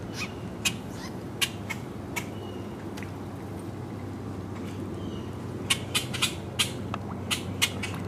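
Small birds chirping: a scattering of short, sharp, high chirps, thickest about six to seven and a half seconds in, over a steady low background hum.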